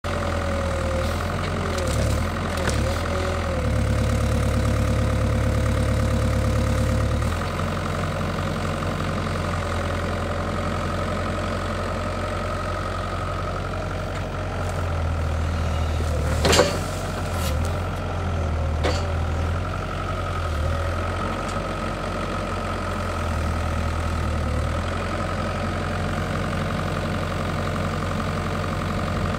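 Bobcat E42 compact excavator's diesel engine running steadily at half throttle while its hydraulics work, the low engine note swelling several times as the arm comes under load pulling a stump. Past the middle there is a single sharp crack or knock.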